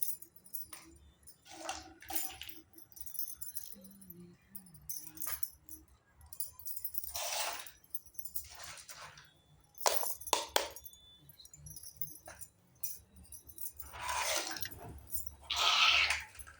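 Handling of a mini toy kitchen set's small pieces and packaging: scattered clinks, taps and rustles. The sharpest clicks come about ten seconds in, and longer rustling comes midway and near the end.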